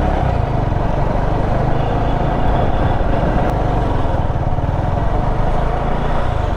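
Motorcycle engine running steadily at low revs, with road and wind noise over it.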